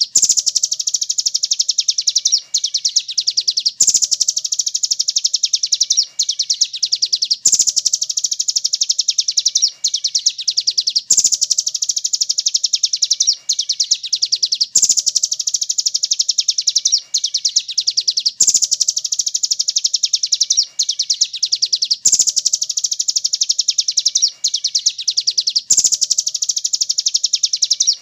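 Looped bird-song training recording of velvet-fronted nuthatch (rambatan paruh merah) and pelatuk beras calls: a fast, dense trill of high chirping notes, the same phrase repeating about every three and a half seconds with a brief break between phrases.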